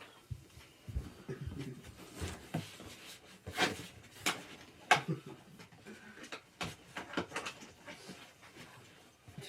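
Irregular clicks, knocks and creaks of gaming chair parts being handled and fitted, with a few sharper knocks about three and a half and five seconds in.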